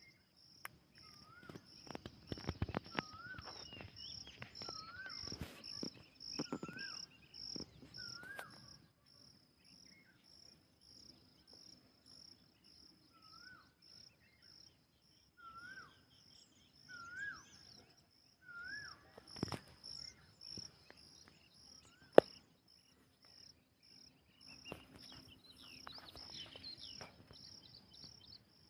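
Outdoor nature ambience: an insect chirping in a steady high-pitched pulse, about two or three pulses a second, while a bird repeats a short up-and-down whistled call about once a second in two runs. A single sharp click sounds late on.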